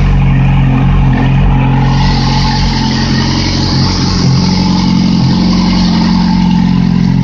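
2008 Yamaha R6 inline-four engine, fed through open headers with no exhaust tip, idling steadily while it warms up. A hiss joins about two seconds in and fades out near the end.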